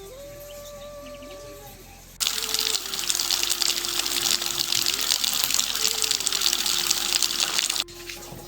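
A soft background melody, then about two seconds in a loud, steady hiss of rushing water cuts in abruptly. It runs for about five and a half seconds and cuts off sharply near the end, with the melody going on faintly beneath it.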